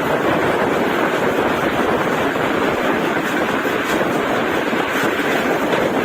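Steady rushing noise of the 22953 Gujarat Superfast Express running at speed, heard from aboard: wheels on the rails and air rushing past, even and unbroken.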